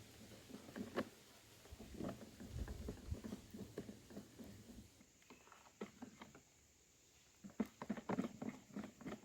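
Irregular soft taps and clicks from food being handled and worked in the kitchen, with a quieter stretch a little past the middle and a quick cluster of taps near the end.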